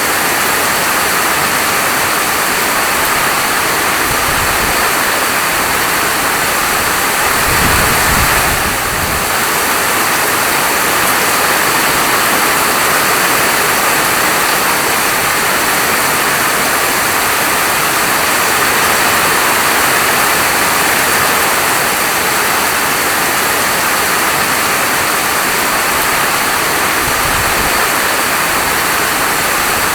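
Rain falling steadily, a dense even hiss, with a few brief low rumbles underneath.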